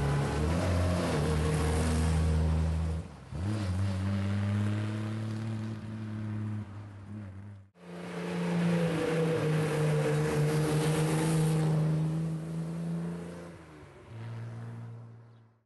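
Classic sports car engines passing one after another. First a 1957 Austin-Healey 100/6's straight-six pulls up the road past the camera, its note dipping and changing pitch about three seconds in. After a sudden break, a 1958 Austin-Healey Sprite's small four-cylinder comes up the road and fades away near the end.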